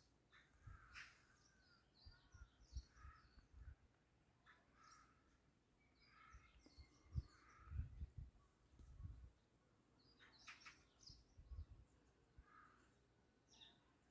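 Wild birds chirping and calling faintly, short scattered calls throughout. Scattered low thumps sound underneath, the loudest about seven and eight seconds in.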